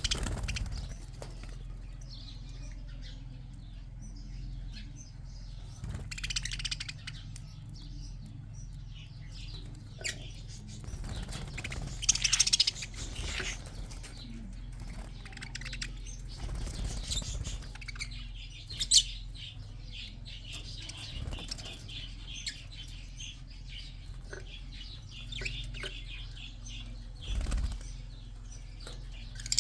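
Budgerigars chirping in an aviary, with several brief bursts of wing flapping, over a steady low hum.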